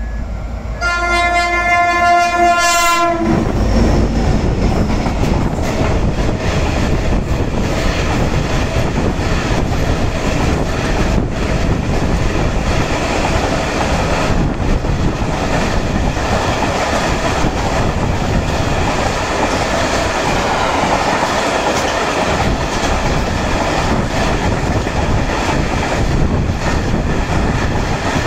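A train horn sounds one long blast about a second in. Then a container freight train passes close by: a steady rumble and rattle of the wagons, with wheels clicking over the rail joints.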